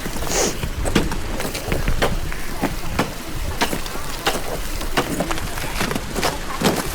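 Footsteps crunching on glacier ice, irregular sharp crunches over a steady hiss of wind and rain on the microphone.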